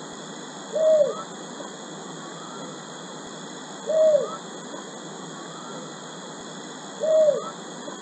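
A bird's short hooting call, one note that rises and then falls, repeated three times at even spacing about every three seconds, over a steady high hiss with fainter, higher notes between the calls.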